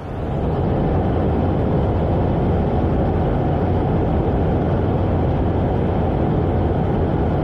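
Jet aircraft engine noise: a loud, steady low roar that starts abruptly and falls away near the end.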